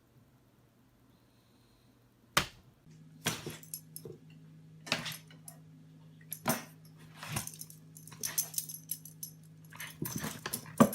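A dog making short, sharp sounds about once a second over a steady low hum, after a sharp click a little over two seconds in; the first two seconds are nearly silent.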